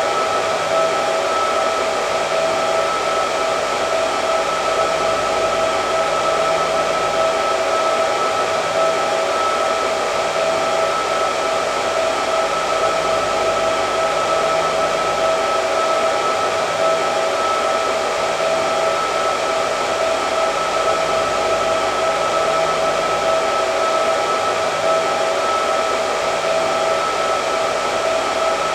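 Hair dryer running steadily: a constant rush of air with a steady motor whine on top, unchanging throughout.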